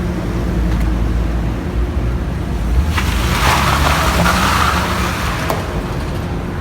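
Car engine running with a steady low rumble. A louder, rough swell of noise starts about halfway through and dies away near the end, fitting a rev.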